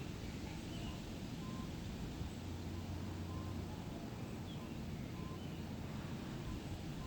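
Forest ambience: a steady low rumble with faint bird calls over it, short high notes repeating about once a second.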